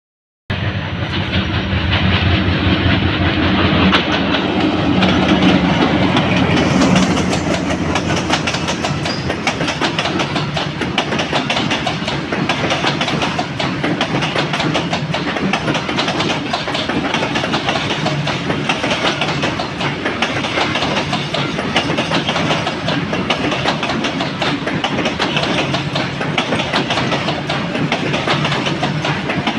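Freight train running past at high speed, its wheels clattering steadily over the rail joints, with a heavier low rumble in the first several seconds.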